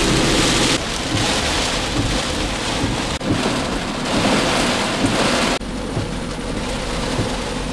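Heavy storm rain pouring with strong wind, a dense steady hiss over a low rumble; the level drops abruptly a few times.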